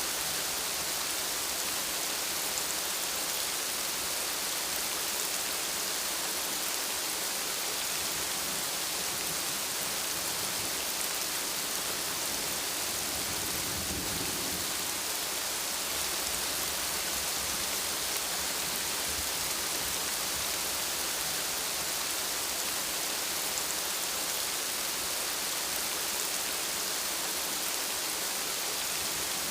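Steady rain falling, with a brief low rumble of distant thunder about halfway through.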